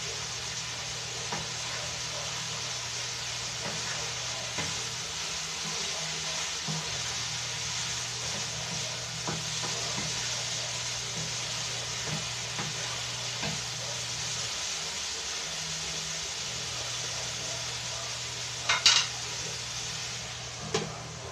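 Ground meat, hot dog and diced vegetables sizzling steadily in a nonstick frying pan, with a wooden spatula scraping and tapping as the mixture is stirred. Near the end a glass pan lid clanks sharply against the pan, the loudest sound, then knocks again as it is set on, and the sizzle quietens slightly.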